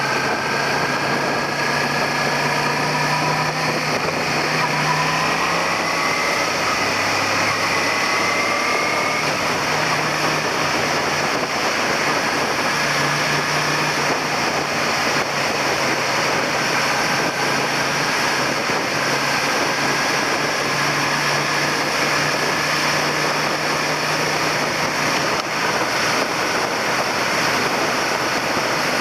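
Suzuki SV400's V-twin engine running under way, heard with heavy wind rush, its pitch rising slowly as it accelerates, once early and again in the middle.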